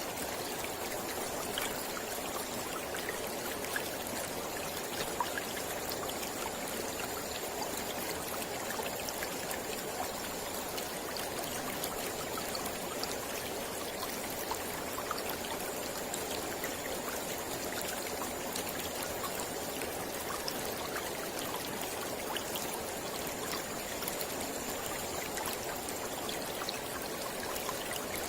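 Mountain river flowing steadily over rocks, an even rushing with small splashes and trickles.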